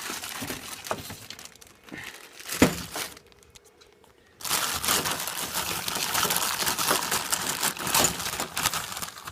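Someone rummaging through stored items by hand, with crinkling and rustling like plastic being handled and one sharp knock about two and a half seconds in. After a short pause, a longer stretch of steady crinkling that stops near the end.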